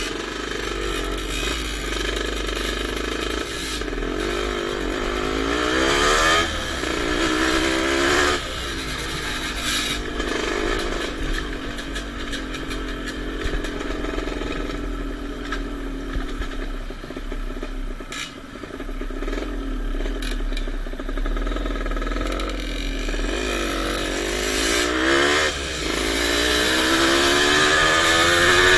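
Motocross bike engines revving and accelerating, pitch rising and falling as the throttle is worked, with a long climbing rev near the end.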